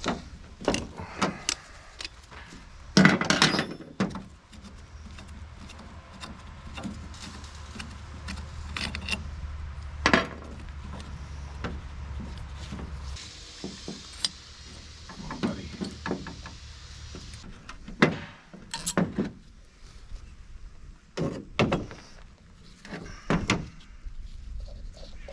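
Tools and small metal carburetor parts clicking, tapping and clinking as an old Autolite carburetor is taken apart by hand, with scattered sharp knocks. A steady low hum runs for several seconds in the first half, and a hiss follows for a few seconds.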